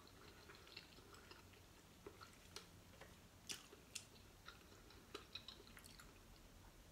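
Faint chewing of a scallop with the mouth closed, with a few soft wet mouth clicks scattered through.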